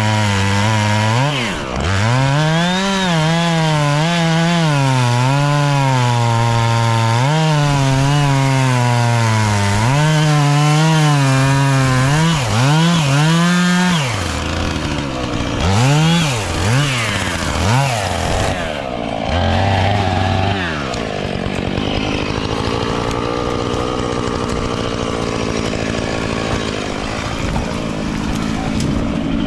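Chainsaw engine revving up and down over and over, its pitch dropping and climbing as it is throttled and loaded while cutting wood. In the last third a steadier, lower engine sound takes over.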